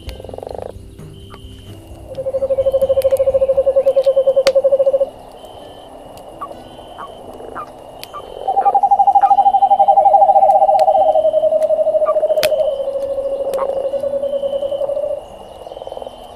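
Frogs trilling: one long pulsing trill lasting about three seconds, then several overlapping trills at slightly different pitches, each lower than the one before, lasting about six seconds in all. Campfire crackles snap sharply throughout.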